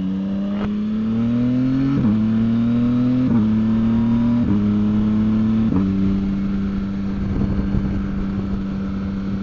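Motorcycle engine accelerating up through the gears: the engine note rises, drops sharply at each of four quick upshifts about a second apart, then settles into a steady cruise.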